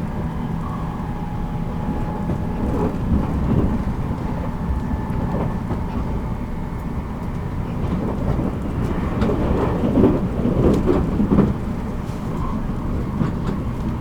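Running noise of a JR Kyushu 783 series electric limited express, heard from inside motor car MoHa 783-13: a steady rumble of wheels on rail with a faint steady tone. Louder clusters of knocks and clatter come about three to four seconds in and again about ten seconds in.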